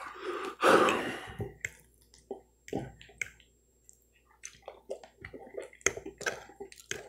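Close-miked chewing and wet mouth sounds of a man eating, with loud breaths and a few sharp clicks of a metal fork against the plate.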